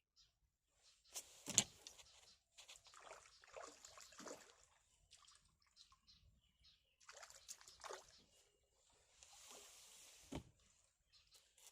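Faint water sloshing and splashing mixed with scattered handling knocks, with one sharp click about a second and a half in.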